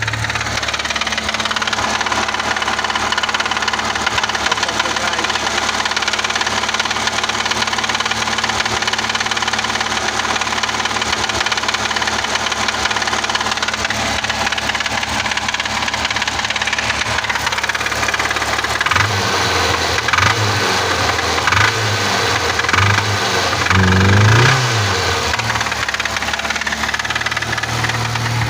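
VAZ-2106's four-cylinder petrol engine running with a knock, soon after a first start following months of standing. Its note rises and falls unevenly for several seconds near the end.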